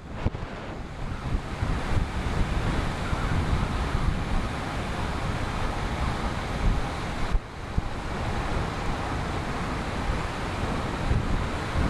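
Wind buffeting the microphone of a camera on a moving road bike: a steady rushing noise with a gusty low rumble, dipping briefly about seven seconds in.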